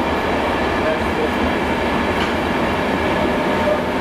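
Passenger train moving along a station platform: a steady, even running noise of wheels on rail and the train's machinery.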